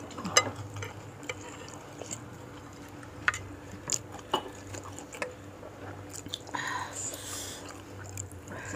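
Someone eating meatball soup close to the microphone: chewing, with scattered short clicks of a spoon against the bowl and a longer wet noisy sound about two-thirds of the way through.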